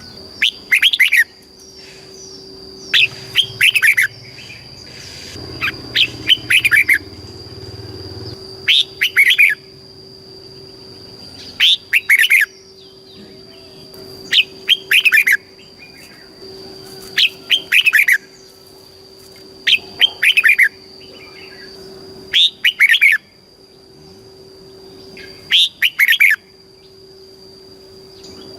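Red-whiskered bulbul singing: short, loud phrases of quick falling whistled notes, often given in close pairs, repeating every two to three seconds. A faint steady high whine runs underneath.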